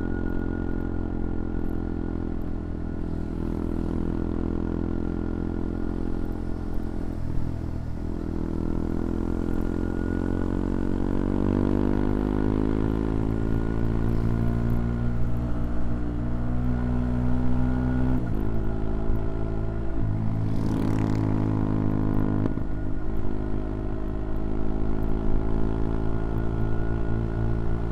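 CFMoto Papio XO-1's single-cylinder engine under way. It holds a steady note, then climbs in pitch over about ten seconds as the bike accelerates. Its pitch breaks suddenly three times close together, at gear changes, before it settles into a steady cruise.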